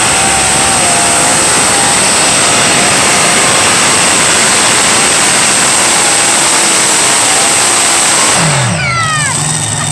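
Competition pulling tractor's engine at full throttle, a loud unbroken roar. About eight and a half seconds in, the revs fall away sharply as the engine is backed off, settling into a lower, steady run.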